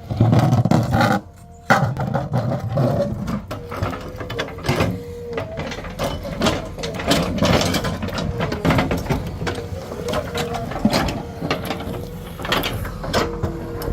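JCB 3DX Plus backhoe loader at work: repeated knocks, clanks and scraping of stone against the bucket over the machine's steady running hum, with a short break about a second and a half in.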